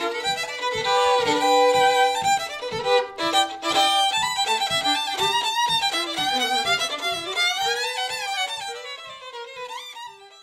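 Fiddle tune with a steady rhythmic accompaniment, about three beats a second, fading out near the end.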